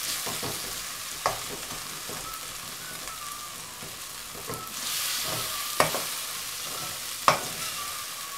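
Onion-tomato masala with chilli, coriander and turmeric powders sizzling in hot oil in a metal kadai while a metal spatula stirs and scrapes it, clinking sharply against the pan three times. The spice powders are being fried in the oil.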